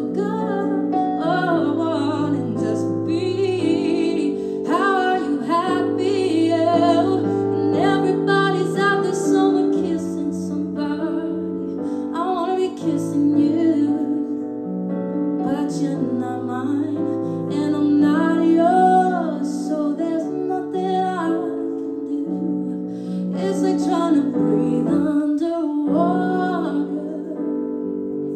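A singer performs a slow ballad live, accompanied by sustained piano chords.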